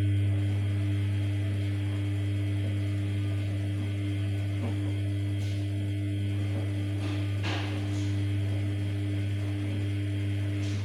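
Samsung P1271 washing machine giving off a steady electrical hum from a mains-powered part, which switches on and cuts off sharply, with a couple of light clicks over it.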